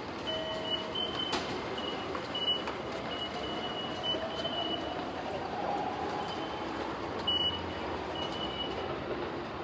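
Railway ticket-gate ambience: short high electronic beeps from the IC card readers as passengers tap through, irregular and repeated many times over a steady background hum, with a faint rising and falling tone in the middle.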